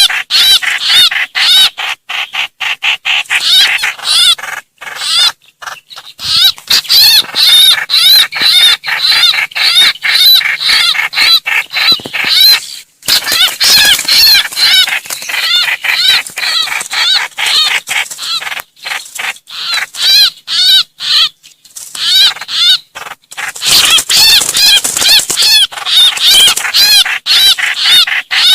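Trao trảo bulbul distress calls, the cry that summons the flock: a loud, fast, unbroken chatter of short arching notes with a few brief pauses.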